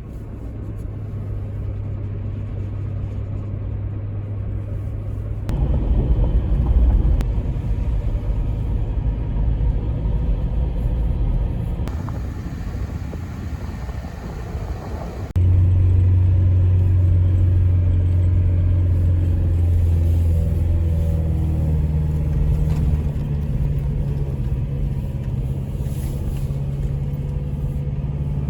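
A vehicle engine running with a steady low hum, the sound changing abruptly about five and fifteen seconds in.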